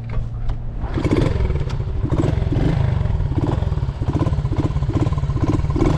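A 1972 Honda SL70's small single-cylinder four-stroke engine starts about a second in, then runs steadily on choke from cold.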